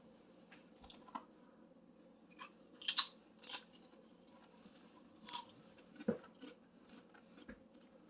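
Someone biting and chewing burger-flavoured Pringles potato crisps: a series of short, crisp crunches, the loudest about three seconds in.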